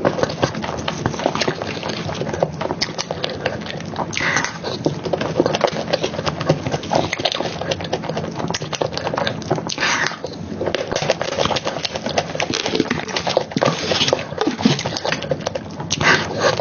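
Close-miked eating of soft chocolate cake and cream: wet chewing and lip smacking, a dense run of small clicks and squelches, with a few short louder breathy sounds.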